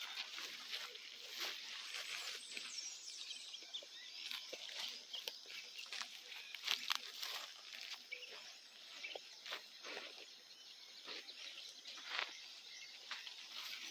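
Quiet outdoor ambience: scattered light clicks and scuffs, with a few brief high bird chirps.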